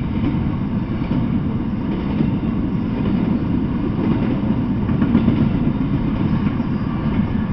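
Double-stack intermodal freight train rolling past on its well cars, a steady low rumble of wheels on rail.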